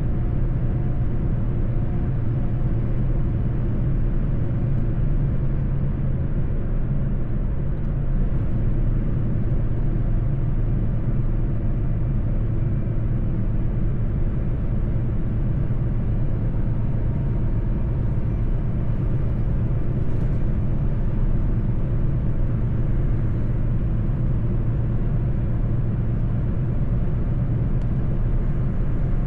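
Mercedes-Benz truck driving at a steady pace: a constant low engine drone mixed with road and tyre noise, with no gear changes or sudden sounds.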